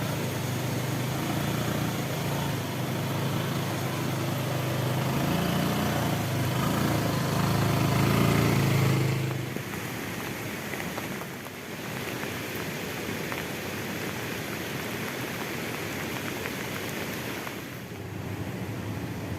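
A vehicle engine runs with a low, steady hum that grows a little louder and then stops about nine seconds in, leaving a steady hiss of outdoor noise.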